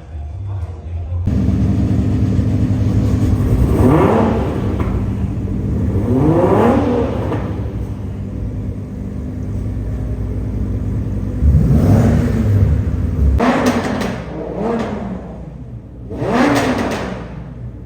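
Car engine revving in short bursts, about six times, each rev rising and falling in pitch over a steady running drone.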